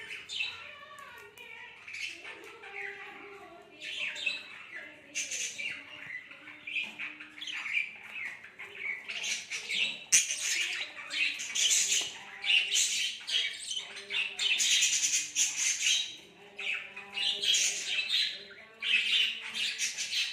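Budgerigars squawking and chattering in rapid, harsh calls, busier and louder in the second half.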